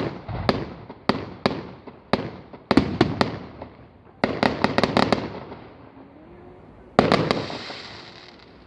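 Fireworks bursting overhead: a series of sharp bangs, each trailing off in an echo. They come singly at first, then in quick clusters about three and four to five seconds in. A final burst about seven seconds in leaves a hissing tail.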